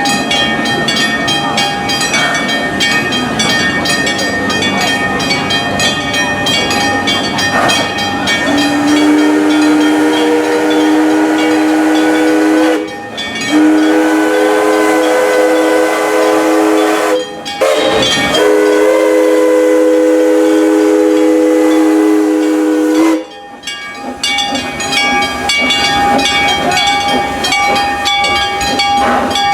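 Steam locomotive's chime whistle sounding three long blasts, each a steady chord of several tones, with short breaks between them. Before and after the blasts the train runs with steam hiss and clatter.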